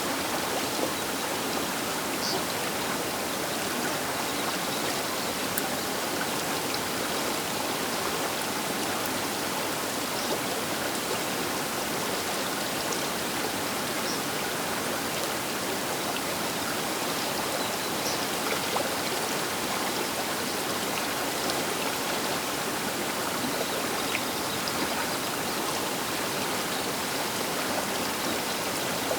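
The Baker River's water running steadily along its bank, an even rushing with a few small splashes.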